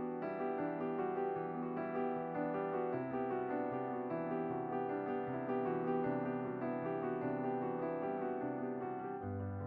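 Background piano music: a steady flow of soft notes over held chords, with the chord changing about three seconds in and again near the end.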